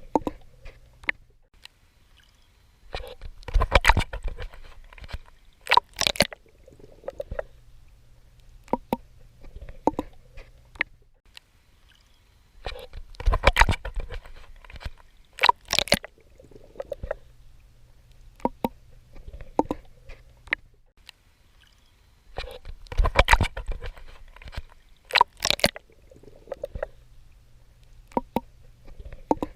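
Swimming strokes in the ocean: water sloshing and splashing in loud bursts about every ten seconds, with sharp clicks and smaller splashes between.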